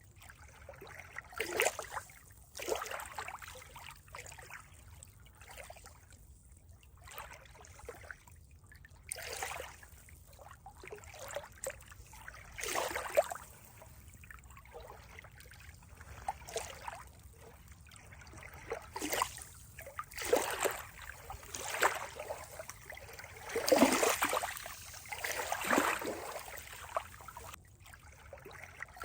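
Water trickling and splashing in uneven surges, with short gurgles and splashes every second or two.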